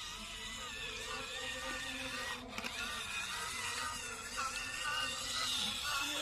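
Small electric motor and plastic gearbox of a mini RC model tractor whirring steadily, its whine wavering in pitch as it drives.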